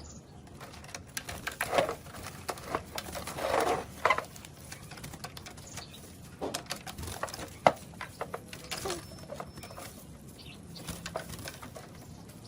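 Birdcage being cleaned: irregular clicks and taps with short scraping swishes, and one sharper click about two thirds of the way through.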